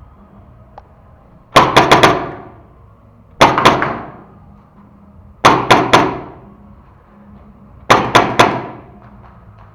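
Paintball marker firing in four quick volleys of three or four shots each, each volley ringing out briefly.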